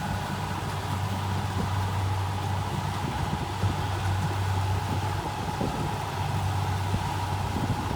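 Diesel engine of a Kubota rice combine harvester running steadily, a constant drone with no change in speed.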